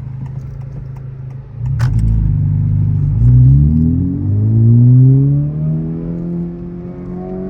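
Modified Honda Civic Type R FL5's turbocharged 2.0-litre four-cylinder engine and exhaust, running at a steady low note, then pulling hard with the pitch rising twice across a gear change before easing back to a steady cruise. A sharp click comes just before the acceleration.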